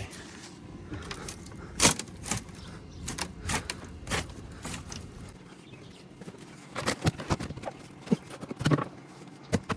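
Irregular knocks, bumps and scrapes of a person squeezing and climbing through a small opening in a wall, with one heavier knock about two seconds in and a run of quicker knocks near the end.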